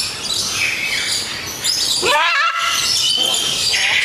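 Birds chirping and whistling, with one louder wavering call about two seconds in, over a constant noisy background.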